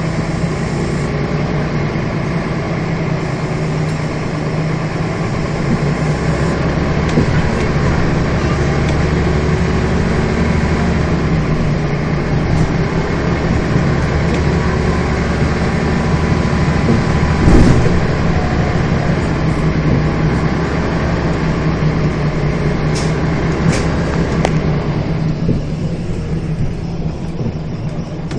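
Scania bus diesel engine running on the move. It gets louder from about six seconds in and eases off near the end. A single loud knock comes a little past the middle, and a couple of sharp clicks follow later.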